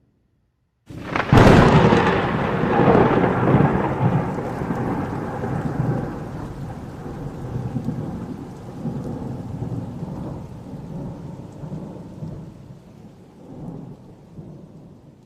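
Thunderclap about a second in, a sudden sharp crack that turns into a long rolling rumble, slowly fading over the next dozen seconds.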